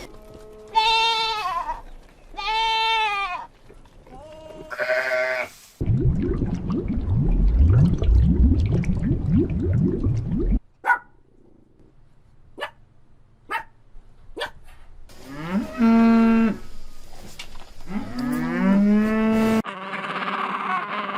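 A string of separate animal calls from different animals: three short bleating calls, then a long low rumbling sound, four sharp clicks, and two more calls, the last one sliding down in pitch.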